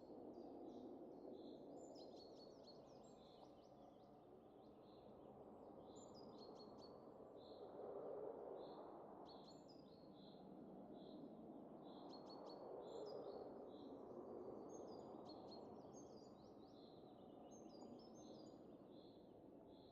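Soft wind rushing, swelling and easing in slow gusts, with small birds chirping and repeating short high notes over it.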